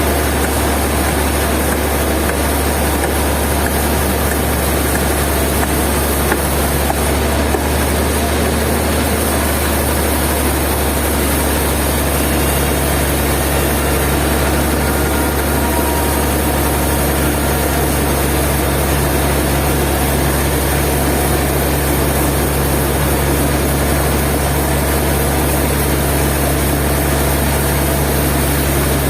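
Heavy sawmill machinery running steadily: a loud, constant deep hum under an even rushing noise, with no change in pitch or load.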